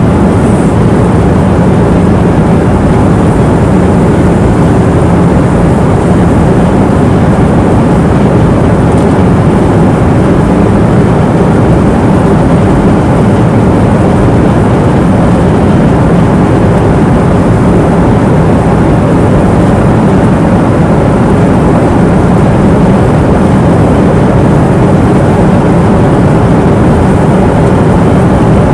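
Airplane cabin noise in flight: the steady, even low rush of engines and airflow, unchanging throughout, with most of its weight in the low range.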